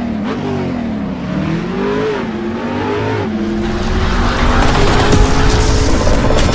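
Car engine revving, its pitch rising and falling several times, then holding a steady high note as a rushing noise builds over it.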